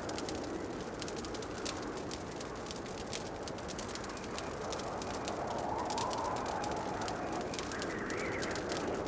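Wood fire crackling in a fireplace: many small sharp pops and snaps over a steady soft rush. There is a slow rising and falling whoosh about halfway through and again near the end.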